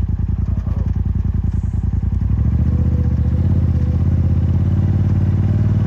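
Side-by-side UTV engine running with a steady, even firing beat, then revving up and holding higher revs about two seconds in, under load as the machine works over an obstacle.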